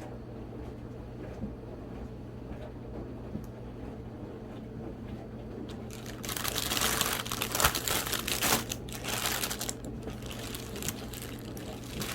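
Packaging crinkling and rustling as it is handled, starting about halfway in, over a low steady hum.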